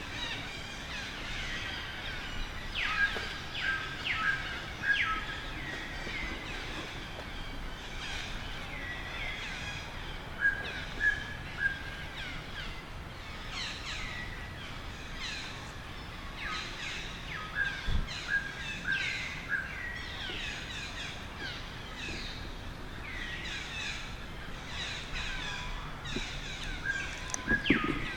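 Many short, high-pitched animal calls, each sweeping down in pitch, coming in clusters over a steady outdoor background hiss.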